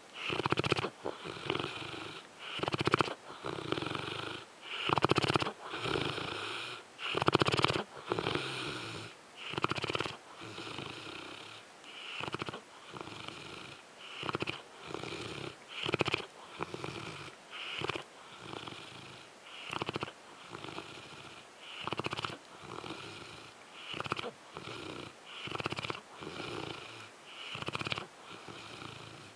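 Dogue de Bordeaux (French Mastiff) snoring in its sleep: rough, wheezy breaths about once a second, louder in the first several seconds and then steadier.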